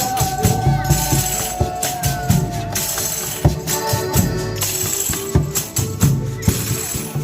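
Folia de Reis band playing: a tambourine shaking and striking in a steady rhythm with rattles, over held melody notes and low drumbeats.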